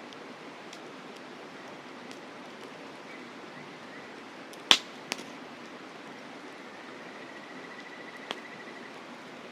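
Campfire crackling, with a sharp loud pop about halfway through and two smaller pops after it, over a steady rushing hiss of flowing river water. An insect trills faintly near the end.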